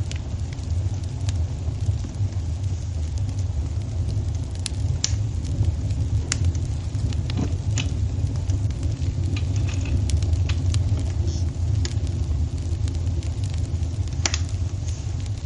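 Wood fire burning in a fireplace: a steady low rumble with scattered sharp crackles and pops, a few of them louder than the rest.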